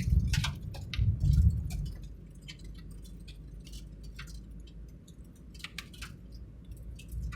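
Vehicle travelling along a road: a steady low road rumble, with two louder surges in the first second and a half and scattered sharp ticks throughout.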